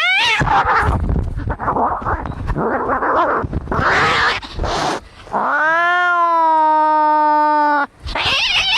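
Cats fighting: about five seconds of harsh hissing and spitting, then one long, steady yowl held for about two and a half seconds that stops abruptly, then wavering screeches near the end.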